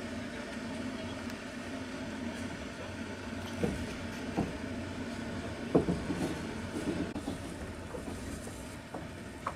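Passenger train heard from inside its carriage: a steady rumble of the moving train, and from about three and a half seconds in a scattering of sharp clacks and knocks from the wheels.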